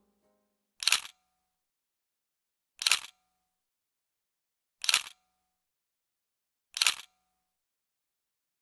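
Camera shutter clicks, one every two seconds, four in all, each a quick double click with dead silence between.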